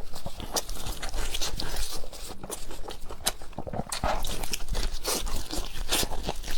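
Close-miked eating: a person chewing and crunching food, with a dense run of sharp irregular clicks and crackles.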